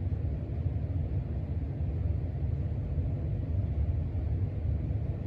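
Casablanca Stealth ceiling fan running on speed 5, a steady low rush of moving air with no clicks or knocks.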